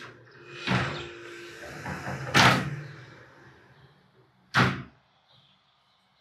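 Sliding glass balcony panels rolling along their track and knocking against their stops: a swelling scrape, then a loud knock about two and a half seconds in and a second sharp knock a couple of seconds later.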